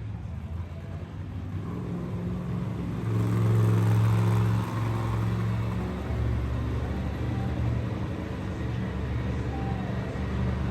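Monster truck engine running at low revs, with a deep steady drone that swells about three seconds in and eases off a second or so later.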